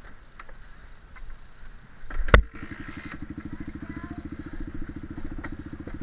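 Dirt bike engine kick-started with a sharp thump a little over two seconds in. It catches at once and idles steadily with an even, rapid beat.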